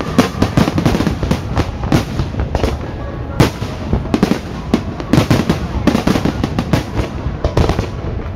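Fireworks display going off in a rapid, continuous barrage: several sharp bangs and crackles every second, with louder reports scattered among them.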